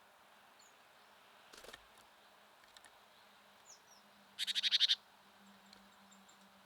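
Wild songbird at a feeder giving a short, rapid rattling call of about ten quick pulses, with faint chirps from other birds and a brief rustle earlier on.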